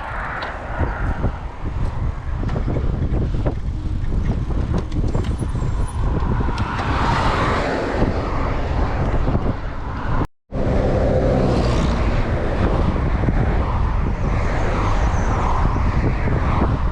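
Wind buffeting the microphone, with the rattling and knocking of a mountain bike riding over rough trail ground. The sound cuts out for an instant about ten seconds in.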